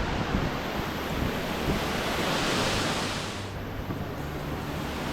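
A waterfall rushing steadily, with wind buffeting the microphone. The hiss grows brighter for about a second around the middle.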